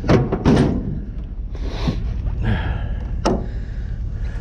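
Scattered knocks and clunks of scrap being shifted and handled, two close together at the start and a sharp click a little past three seconds, over a steady low rumble.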